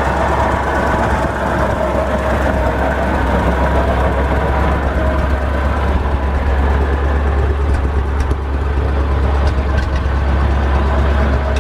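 A 1921 White fire truck's 1948 Ford flathead V8 engine, running steadily.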